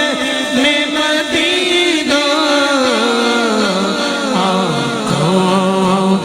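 A male voice singing an Urdu naat without instruments, drawing out a long melismatic phrase that glides down around the middle and settles on a held low note near the end.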